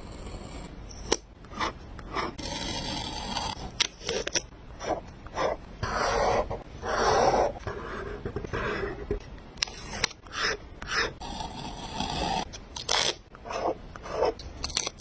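Paper being handled on a journal page: irregular scraping, rubbing and rustling with short sharp clicks and taps.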